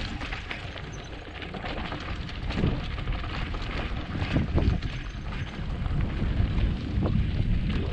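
Wind buffeting the microphone over the tyre and frame noise of a mountain bike descending a dirt trail, with several short knocks and rattles over bumps.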